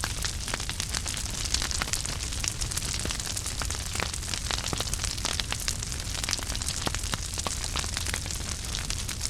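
Wood fire in a fireplace crackling steadily, with many small irregular pops and snaps over a low rumble of flames.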